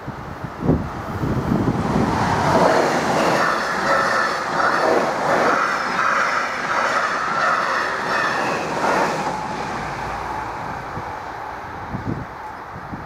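InterCity passenger train passing over a level crossing: a rushing rumble of wheels on rails that builds about two seconds in, stays loud for several seconds and fades away after about nine seconds.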